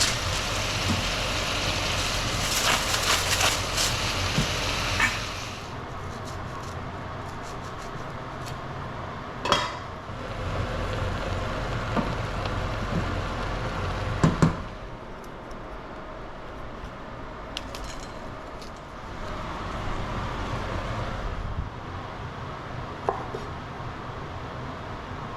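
Food sizzling in a pot, loudest for the first five seconds and then quieter, with a few sharp clinks and knocks of a utensil against the pot.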